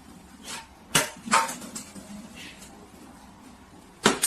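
A few sharp knocks or clacks, two close together about a second in and a louder one near the end.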